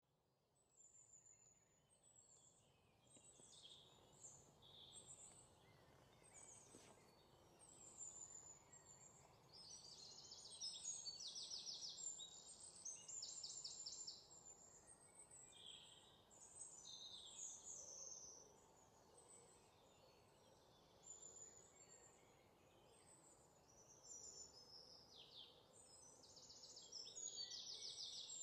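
Faint birdsong: small birds chirping, with rapid trills, over a soft background hiss.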